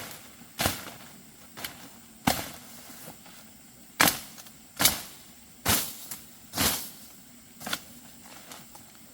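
A series of sharp knocks or strikes, about nine in all, coming roughly one a second at an uneven pace and stopping about a second before the end.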